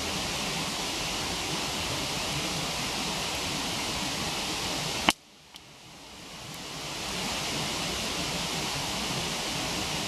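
Steady rush of a waterfall, broken about five seconds in by a single sharp pop from the campfire. Right after the pop the rushing drops away almost to nothing, with one faint click, then swells back to full over about two seconds.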